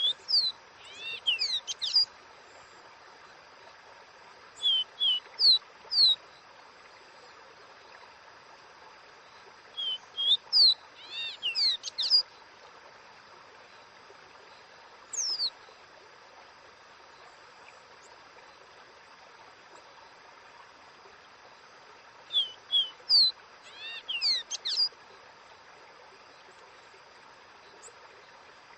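Caboclinho (a Sporophila seedeater) singing its 'dó ré mi' song. Short phrases of clear, slurred whistled notes come every few seconds with silent gaps between them, over a steady background hiss.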